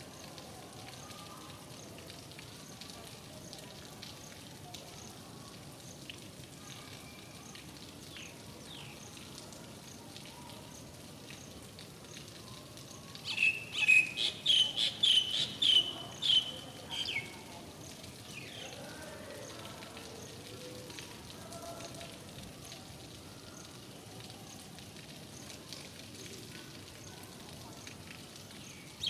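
Steady rain hiss. About halfway through, a bird calls for about four seconds in a quick run of high, repeated notes, the loudest sound here.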